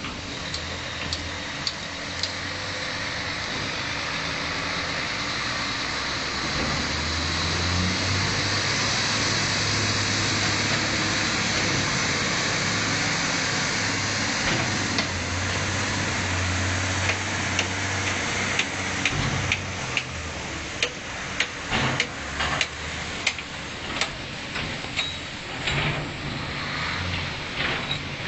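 Heavy diesel excavator working, its engine rising and holding higher under load for several seconds. From about two-thirds of the way through comes an irregular run of sharp knocks and clanks, typical of a bucket loading spoil into a steel tipper body.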